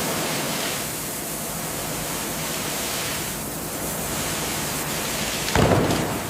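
Steady loud rushing hiss, with a louder surge about five and a half seconds in.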